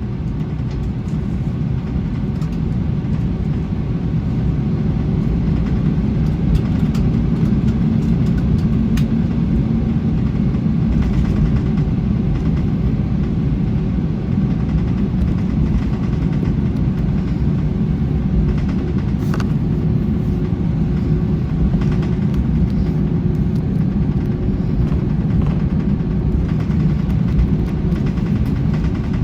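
Airbus A321 jet engines and airframe rumble heard from inside the passenger cabin, a low steady rumble that grows louder over the first several seconds and then holds, with a few light rattles and clicks.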